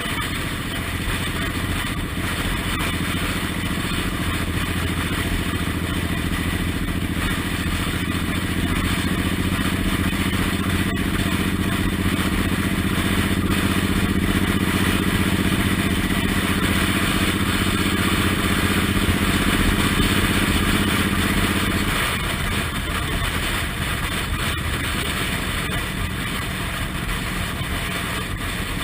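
Suzuki Intruder M1800R's big V-twin engine running under way, pulling steadily and growing louder. About three-quarters of the way through, the engine note drops away suddenly as the throttle is rolled off.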